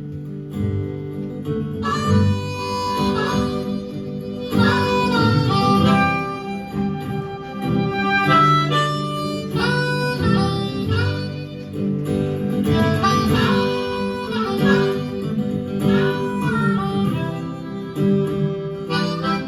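Harmonica solo over acoustic guitar accompaniment, an instrumental break between verses of a slow folk-blues song.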